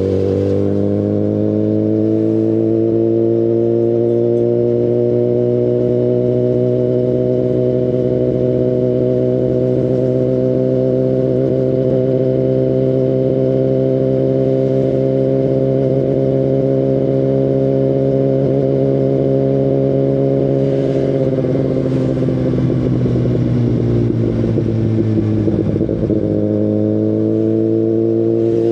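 Kawasaki Ninja ZX-10RR's inline-four engine through an Akrapovic Evolution Line full exhaust system, holding a steady note while riding. About three quarters of the way through the pitch falls as the bike slows, then rises again near the end as it accelerates.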